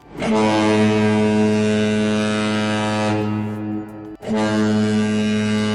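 Deep ship's horn sounding two long blasts: the first about three seconds long and fading near its end, the second starting about four seconds in.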